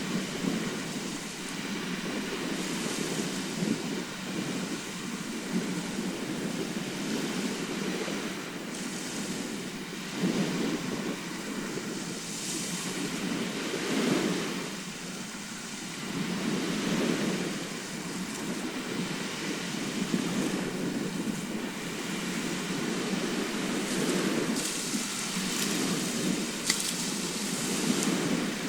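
Sea surf: waves breaking and washing up on the shore in a steady rush that swells and fades every few seconds.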